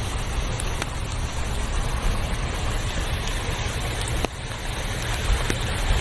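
Steady rushing water with a low rumble underneath and a few faint clicks; the level dips briefly about four seconds in.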